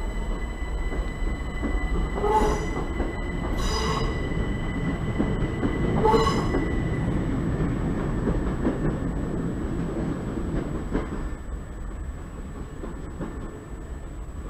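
Electric passenger train pulling away along the track, a steady rumble that fades as it recedes, with three short high squeals about two, four and six seconds in.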